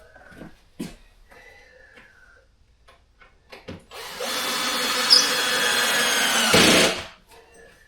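Cordless drill-driver running for about three seconds, driving a screw through the floorboards into a joist to stop the floor creaking; it gets louder and lower just before it stops. Light knocks and clicks come before it.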